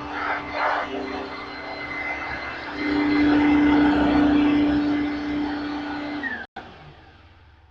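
Singer System upright vacuum cleaner running with a steady motor hum that grows louder about three seconds in. Near the end the motor's pitch falls as it is switched off, and the sound cuts away sharply.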